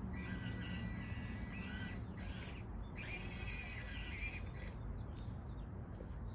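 Electric RC trucks' motors whining in repeated throttle bursts, each up to a couple of seconds long with short gaps between, over a steady low rumble; the whine dies away about five seconds in.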